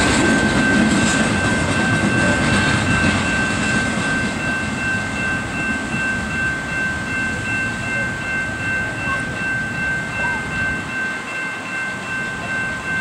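Double-stack intermodal freight train rolling past and away, its rumble and rail clatter slowly fading. A steady high-pitched ringing tone sounds over it and stops suddenly near the end.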